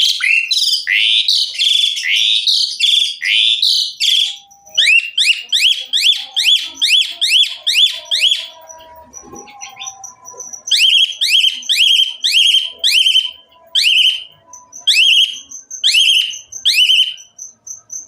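Asian pied starling (jalak suren) singing loudly: runs of quick rising whistled notes, two or three a second, breaking off about halfway for a couple of seconds and then resuming. A thin, high, steady tone sounds under the second half.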